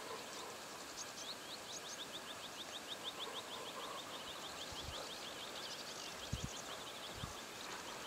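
A songbird singing a long trill of rapid, evenly repeated high notes, about eight a second, starting about a second in and running for some six seconds, with a few other faint bird notes. A few short low thuds come in the second half.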